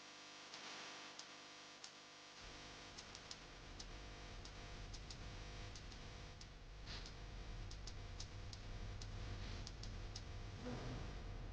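Faint, irregular clicks and ticks over a low steady hum that comes in about two seconds in.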